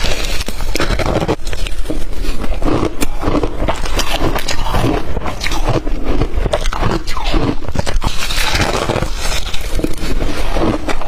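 Blender-crushed ice being bitten and crunched in the mouth: a dense run of irregular crackling crunches.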